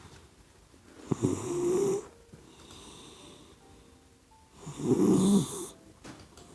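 Puppy snoring in its sleep: two loud snores about a second long each, some three and a half seconds apart, with a quieter breath between them.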